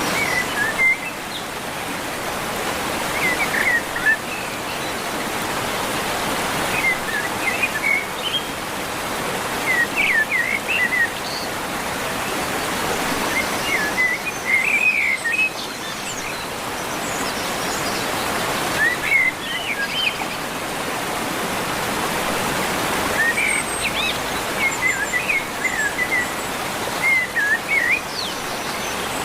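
Birdsong in short chirping phrases that come back every few seconds, over a steady rush of flowing water.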